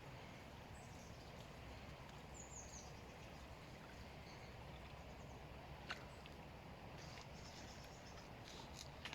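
Quiet outdoor ambience: a steady low background noise with a faint short bird chirp early on, and a sharp click about six seconds in and again near the end.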